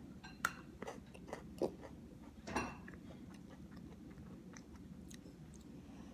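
Biting and chewing a crunchy chocolate-and-almond-coated Pocky Almond Crush biscuit stick: a few sharp crunches in the first three seconds or so, then quieter chewing.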